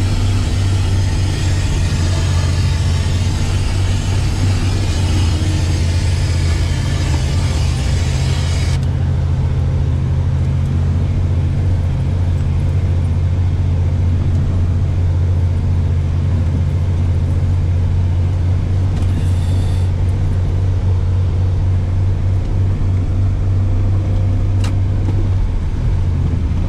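SUV engine running steadily while driving over sand, heard from inside the cabin as a continuous low drone. A higher hiss over it stops abruptly about nine seconds in.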